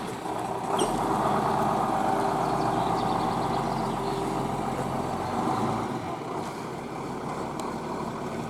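Truck engine running close by. It swells about a second in, holds steady, and drops off at about six seconds.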